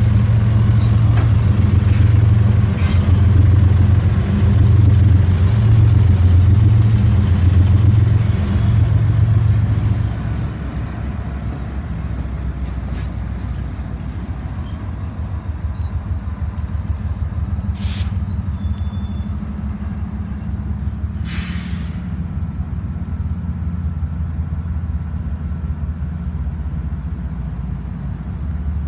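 Diesel locomotive engine running with a steady low drone, loud for about the first ten seconds and then quieter. Two short bursts of air hiss come about 18 and 21 seconds in.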